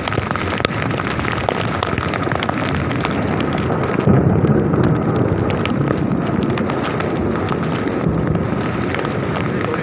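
Thunder rumbling over steady heavy rain, the rumble swelling about four seconds in.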